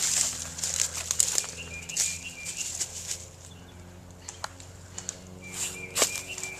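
Footsteps and rustling through dry leaves and brush, louder in the first few seconds and then fading. Twice a bird calls a short run of high notes.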